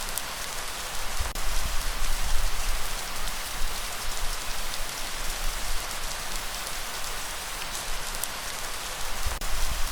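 Steady, heavy rain hissing, with a deep low rumble that swells from about a second in and again near the end.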